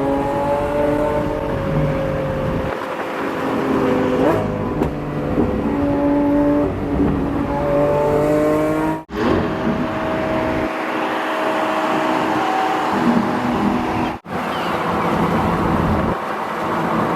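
Sports car engine running hard at highway speed, its pitch climbing and dropping as it revs through the gears. The sound breaks off abruptly twice, about nine and fourteen seconds in.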